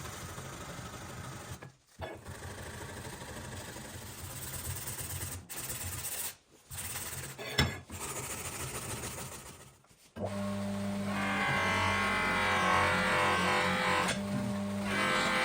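Steady machine-like workshop tool noise with a low pulsing hum, cut off abruptly several times. Background music comes in about two-thirds of the way through.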